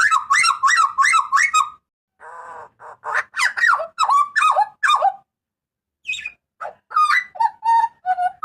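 Hooded butcherbird giving loud, harsh, rapidly repeated calls in runs of about four notes a second, with two brief pauses.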